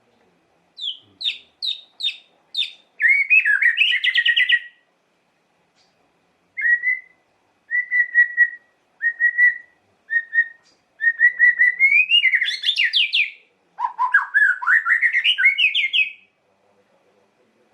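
White-rumped shama (murai batu) singing a loud, shrill, varied song: five short sharp notes, a fast warble, a string of short repeated whistles, another warble, and a closing phrase that climbs steadily in pitch. It is the kind of territorial song played to provoke other shamas into singing.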